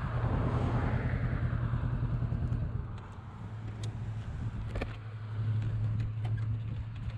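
Motorcycle engine running at a steady low speed, with wind rush on the microphone that dies away over the first few seconds. A few faint clicks follow.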